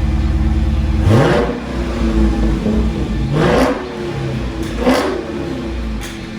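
Dodge Challenger Scat Pack's 392 Hemi V8 exhaust idling with a rhythmic pulse, then revved in three sharp throttle blips, the first about a second in, each climbing and falling back to idle.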